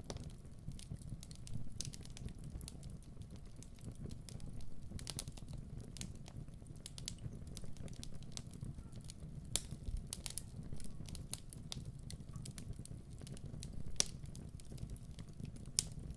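Wood fire crackling in a fireplace: a steady low rumble of flames with scattered sharp pops and snaps, a few of them louder.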